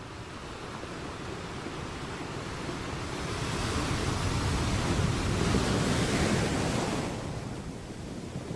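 Sea waves washing ashore: the rush of surf builds over the first few seconds, stays at its loudest with a hissing wash, then falls away about seven seconds in.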